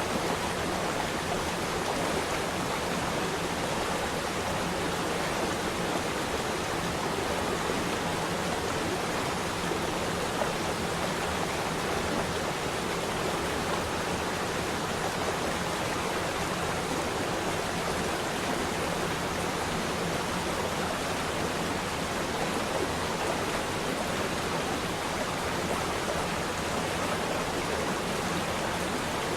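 Flowing water rushing steadily and evenly, like a stream or small waterfall.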